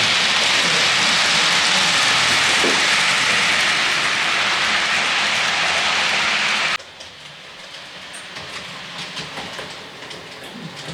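OO-gauge model train running on the layout: a loud, steady hiss that cuts off suddenly about seven seconds in, then quieter running with faint light clicks from the track.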